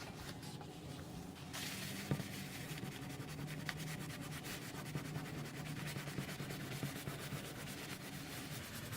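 Steady rubbing of a soft wipe across card stock, wiping sponged ink off the white embossed areas of a card to brighten them; it gets louder about a second and a half in.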